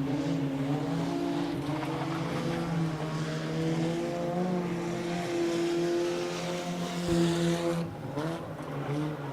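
Several junk race cars' engines running at speed around a dirt oval, their pitches rising and falling as they pass and overlapping, easing off near the end.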